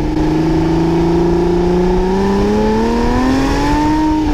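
A car engine revving, its pitch climbing slowly and steadily, then easing off slightly near the end.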